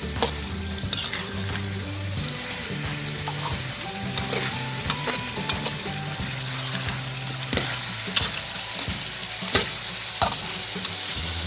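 Chicken and sliced lemongrass sizzling as they are stir-fried in a metal wok, with a steady hiss. A metal spatula scrapes and clacks against the wok about eight times.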